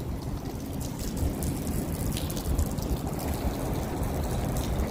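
Rain falling with water trickling, a steady wash of noise with a low rumble under it and scattered faint drips.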